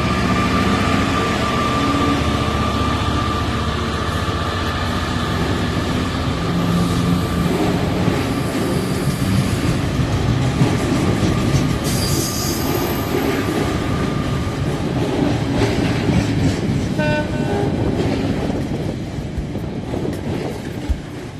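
Diesel locomotive sound from model trains: a steady engine rumble with running noise on the track, a hiss about twelve seconds in, and a short horn blast about seventeen seconds in. It fades somewhat near the end.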